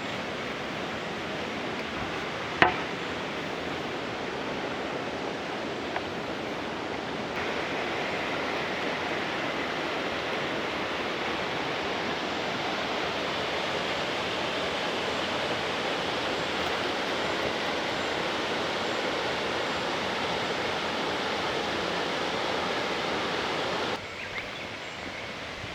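Waterfall: a steady rush of falling water, with one sharp click about two and a half seconds in. The rush grows a little louder about seven seconds in and drops away near the end.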